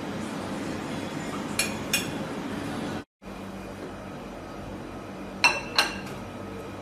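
Tableware clinking: two light clinks, then after a cut two sharper, ringing clinks, over a steady hum of background noise.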